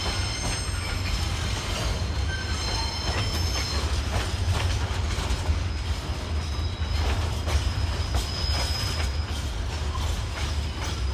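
A long container freight train's wagons rolling past with a continuous low rumble, steady high-pitched wheel squeal and irregular clicks of wheels over the rails.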